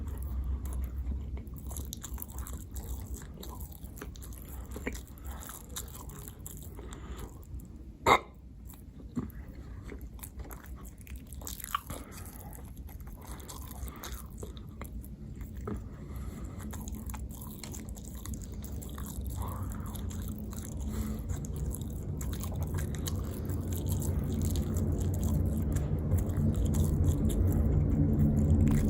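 Close-miked chewing and biting of food, with scattered small mouth clicks and one sharp click about eight seconds in. A low hum grows louder over the last third.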